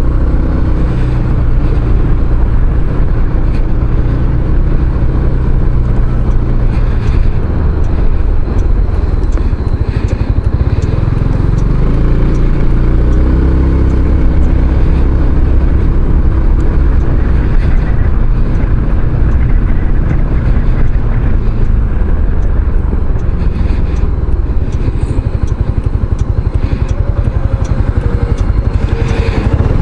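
Kymco Xciting 500cc maxi-scooter engine running while riding, its note rising and falling with speed, over a steady rush of wind and road noise.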